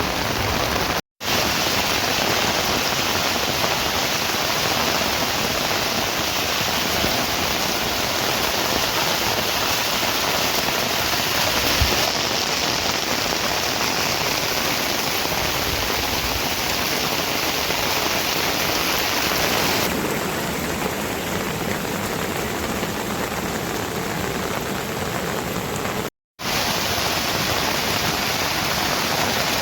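Steady heavy rain falling and pattering on surfaces. It drops out to silence for a moment twice, about a second in and near the end.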